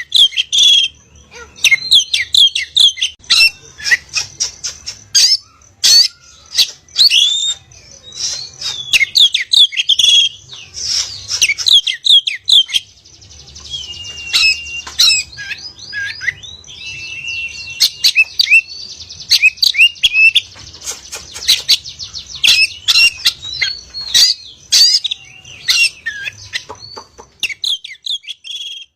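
Oriental magpie-robin (kacer bukor) singing a loud, rapidly varied song of whistled notes, slurs and sharp clicks. It comes in bursts of a few seconds with short pauses between them.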